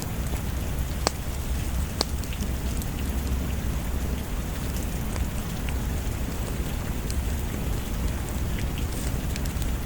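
Steady heavy rain with a deep low rumble underneath. Two sharp clicks come about one and two seconds in, with fainter ticks scattered through.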